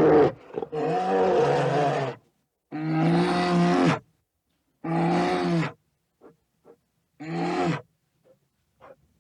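A lion roaring: a bout of deep, drawn-out calls, each about a second long, that grow shorter, with a few faint grunts near the end.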